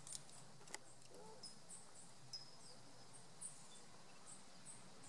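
Quiet outdoor ambience: small birds chirping faintly, scattered short high chirps with one brief falling call, over a low steady hum, with a couple of soft clicks near the start.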